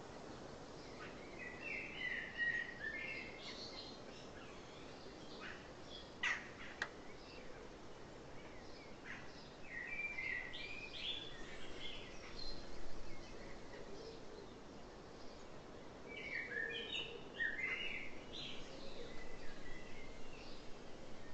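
Birds singing in short chirping phrases, three bouts of song over a steady background hiss. Two sharp clicks come about six seconds in.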